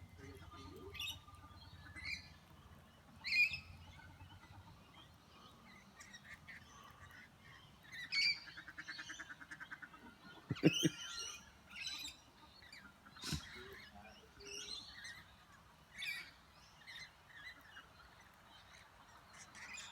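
Lorikeets and ducks calling at a feeder: short scattered chirps and screeches, a rapid chattering run about eight seconds in, and a louder, lower call near the middle.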